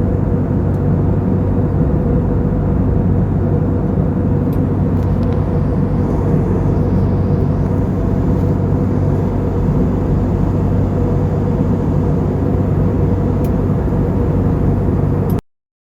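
Steady drone of an airliner's engines and airflow, heard from inside the cabin, with a constant low hum. It cuts off abruptly near the end.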